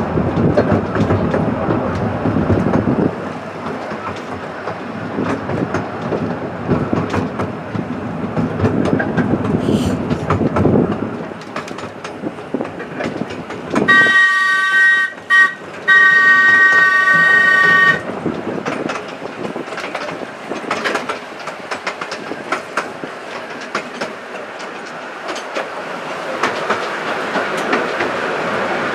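Miniature railway carriage rolling along the track with a steady clickety-clack of the wheels over rail joints. About halfway through, the train sounds a chord of several notes: a short blast, a brief pip, then a longer blast of about two seconds.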